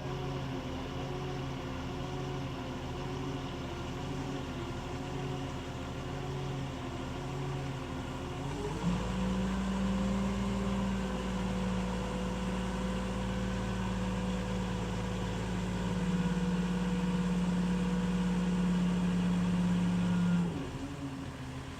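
An engine idling steadily, then speeding up about eight seconds in and holding a higher steady speed before dropping back to idle near the end.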